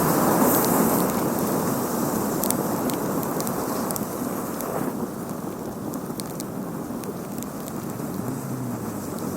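A big mass of burning matches crackling, a rushing fire noise dotted with scattered sharp pops, slowly dying down.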